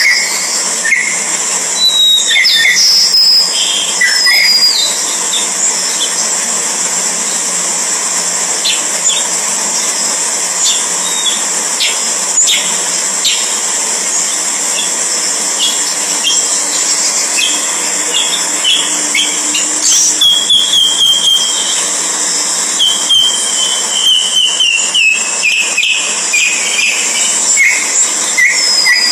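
Birds chirping in short whistled notes, with runs of quick repeated notes about two-thirds of the way through, over a steady high hiss.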